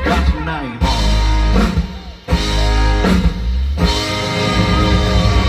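Live band music with electric guitar and drum kit playing sustained chords without singing. The sound drops away briefly about two seconds in, then the band comes back in.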